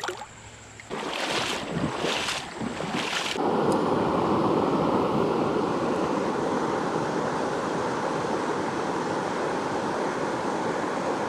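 Steady rush of flowing creek water, setting in about three seconds in after a few short noisy swishes.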